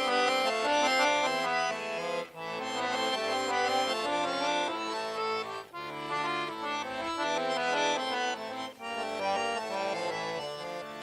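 Accordion playing a folk tune in chords, the instrumental opening to a song, with short breaks between phrases.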